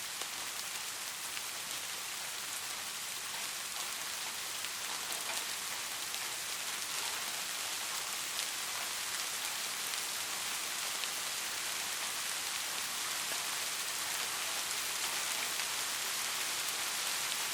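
Steady rain falling on a surface, an even hiss with many small drop ticks, no thunder.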